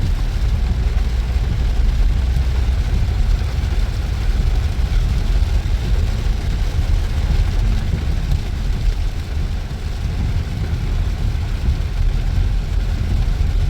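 2012 Honda Odyssey running in the rain: a steady low rumble with an even hiss of rain above it.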